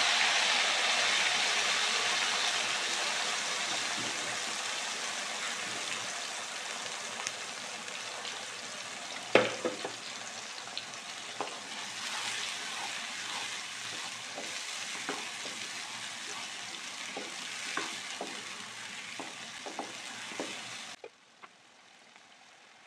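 Blended onion and garlic paste sizzling in hot oil in a wok, loudest at first and slowly dying down as it fries. A wooden spatula stirs it with scattered clicks and taps against the pan, the sharpest about nine seconds in. The sizzle cuts off abruptly near the end.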